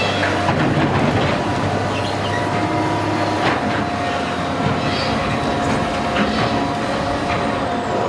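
A heavy log-hauling machine running with a steady mechanical rumble. Metal clanks come at odd moments, over a steady high squeal.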